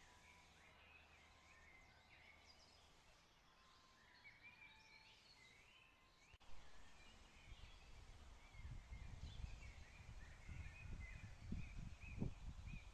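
Small birds chirping and twittering faintly on and off. In the second half an irregular low rumble grows louder beneath them.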